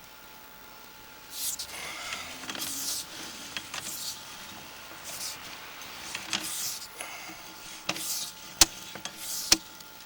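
Sewer inspection camera's push cable being fed by hand into the drain line, with a run of short swishing strokes a little over a second apart. Two sharp clicks come near the end.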